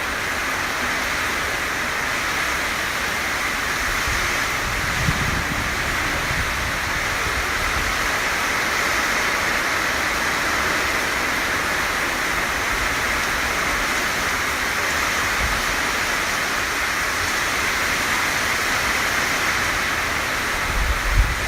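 Heavy tropical-storm rain pouring steadily, with wind gusting and buffeting the microphone about five seconds in and again at the end.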